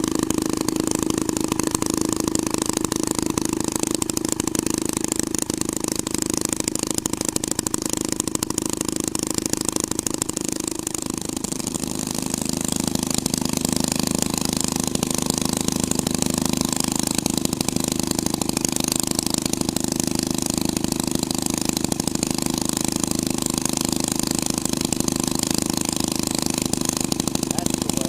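Twin-engine hot rod motor running steadily at a fast idle. About eleven seconds in it briefly sags in pitch and loudness, then picks back up.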